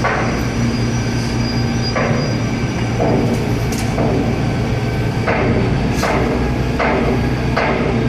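Truck-mounted concrete boom pump running: a steady diesel drone with a loud clunk-and-hiss repeating every second or two as the pump strokes.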